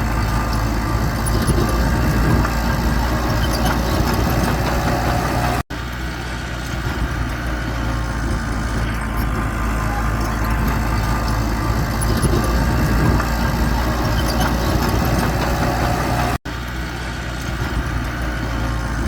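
Bulldozer's diesel engine running steadily under a continuous low drone. The sound cuts out for an instant twice, about six seconds in and again about sixteen seconds in.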